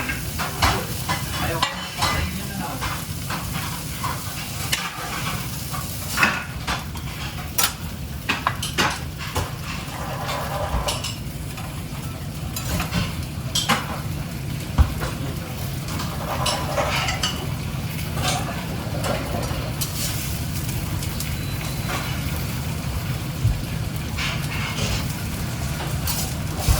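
Food sizzling in a pan on a kitchen stove, with a steady hiss under frequent metal clinks and scrapes of utensils against pans.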